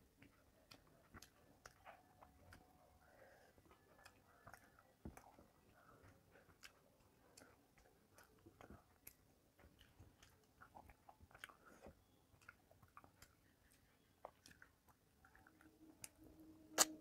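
Faint chewing and soft mouth sounds of a person eating rice by hand, with small clicks of fingers working the food on a steel plate. One sharper click comes near the end.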